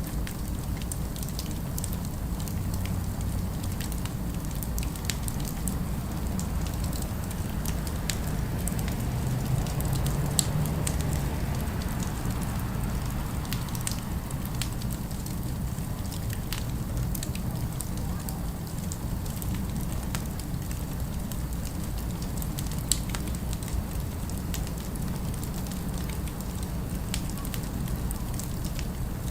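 Fireplace crackling: scattered sharp pops and snaps, two of them louder, over a steady low city rumble that swells briefly near the middle.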